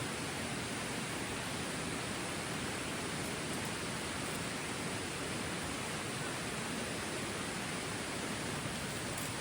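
Steady, even hiss of falling or rushing water, with no distinct sounds standing out.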